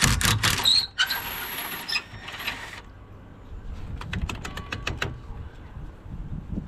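Hand tools and metal parts clicking and clinking as a car battery hold-down is undone, with a quick run of sharp clicks about four seconds in.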